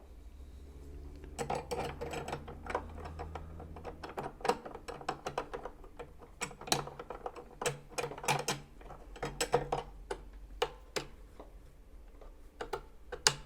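Small metal parts of a Janome sewing machine handled and fitted around the throat plate and bobbin area: a part with a locating notch being seated. Irregular sharp clicks and taps of metal on metal, some loud, with no motor running.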